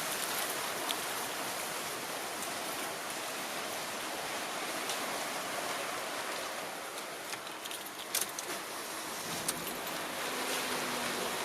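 Steady hiss of heavy rain falling, with a few faint clicks about eight seconds in.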